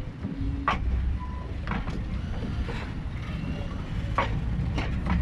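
Tren de la Sabana passenger coaches rolling slowly past, a steady low rumble with sharp clacks of the wheels on the rails about once a second.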